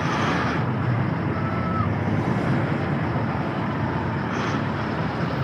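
Steady rumble of running vehicle engines with noisy swells, without clear revving.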